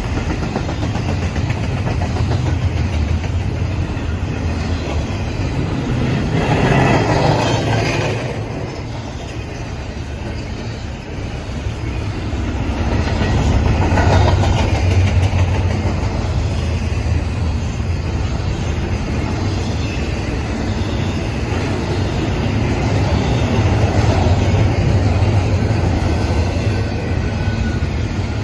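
A BNSF intermodal freight train rolling past in a steady rumble that swells louder three times.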